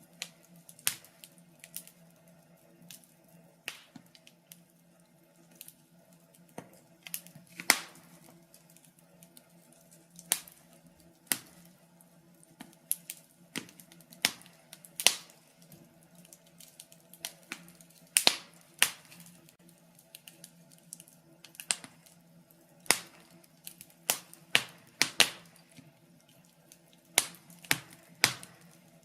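Wood fire crackling in a fireplace: irregular sharp pops and snaps, several loud ones among many faint ticks, over a faint steady low hum.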